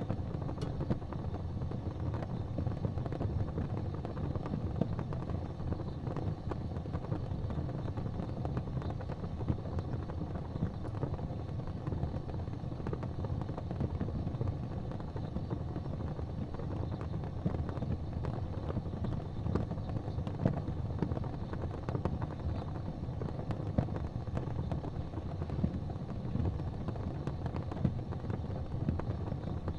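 Fire burning in a fireplace: a steady low rumble of flames with scattered crackles and sharp pops.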